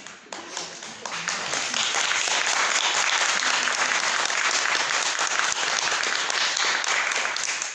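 An audience applauding: scattered claps in the first second build into full, steady applause that starts to die away at the very end.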